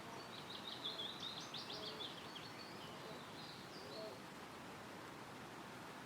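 A small songbird singing one quick, high warbling phrase that trails off after about four seconds, over a steady faint hiss of wind in the trees.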